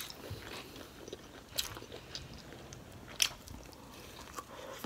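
Close-miked chewing and wet mouth sounds of a person eating saucy shrimp and broccoli with rice. Three short sharp clicks stand out, about a second and a half apart.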